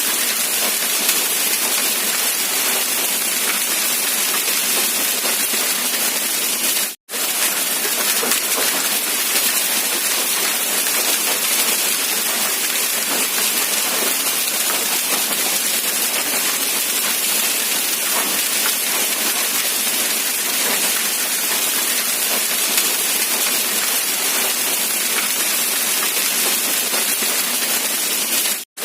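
Steady hiss of heavy rain, even and unbroken, cut by two brief silent gaps, one about seven seconds in and one near the end.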